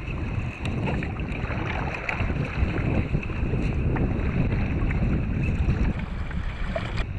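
Wind buffeting the microphone in a low rumble, over light water sounds around a kayak.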